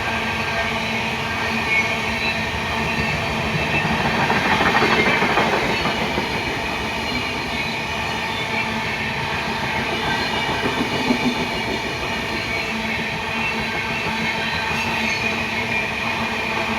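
A train running along the track, a steady continuous rail noise with several held tones, swelling to its loudest about four to six seconds in.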